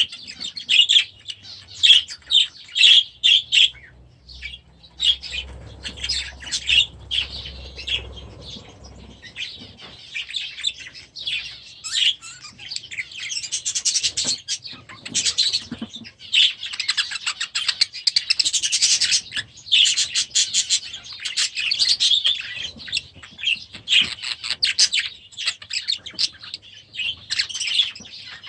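A flock of budgerigars chattering, with many rapid, overlapping high chirps and warbles.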